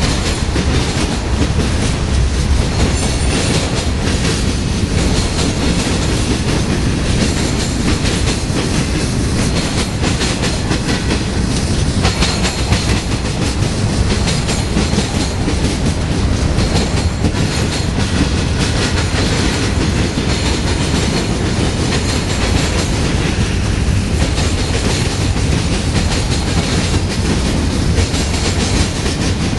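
Freight cars of a Union Pacific manifest train rolling past: a steady rumble of steel wheels on rail, with faint clicks scattered through it.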